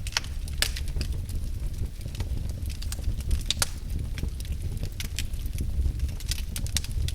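Wood fire crackling in a fireplace: irregular sharp pops and snaps over a steady low rumble of burning logs, with a couple of louder pops.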